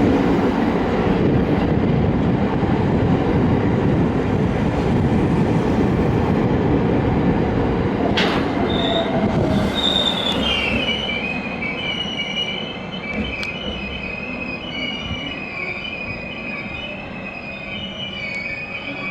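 A train running past along the platform, with a loud, even rumble of wheels on track. About halfway through, the wheels start squealing on curved track in high, wavering tones while the running noise slowly fades.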